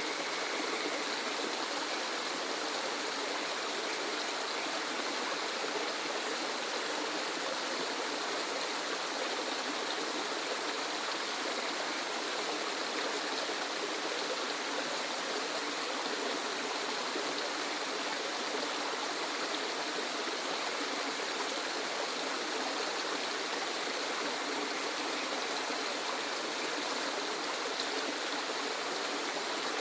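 Waterfall: a steady, even rush of falling and flowing water.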